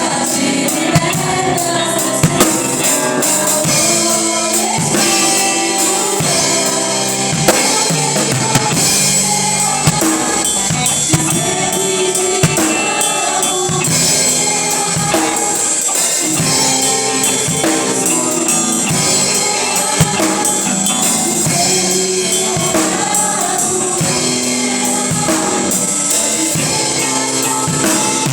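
Band music with a drum kit playing throughout, bass drum and sharp hits keeping the beat under pitched instruments.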